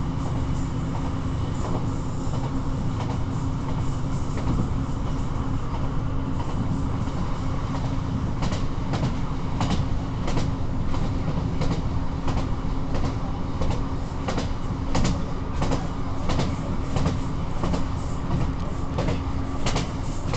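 Class 158 diesel multiple unit running at speed, heard from inside the carriage: a steady rumble with an engine drone. From about eight seconds in, a run of sharp clicks from the wheels passing over rail joints.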